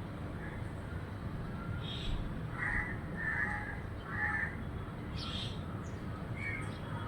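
Short, harsh animal calls repeated about every half second to second, over a steady low background.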